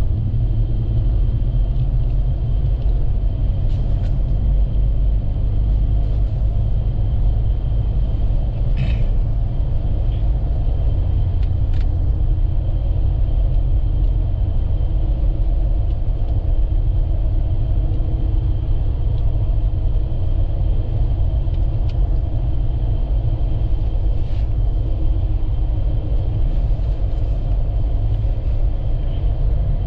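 Steady low rumble of a vehicle driving along a highway, heard from inside the cab, with a few faint clicks.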